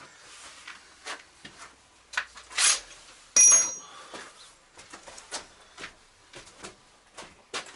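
Metal tools and parts being handled on a workbench: irregular clicks, knocks and clinks, with one louder ringing metal clink about three and a half seconds in.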